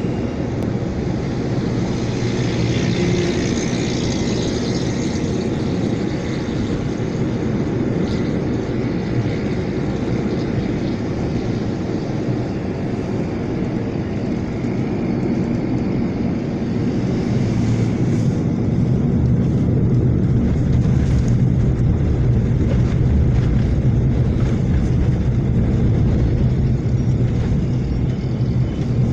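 A moving truck running on the road: a steady low rumble of engine and road noise, which grows louder about two-thirds of the way through.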